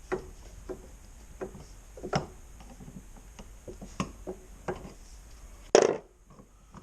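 Light knocks and taps, roughly one every two-thirds of a second, then a single louder short clatter near the end.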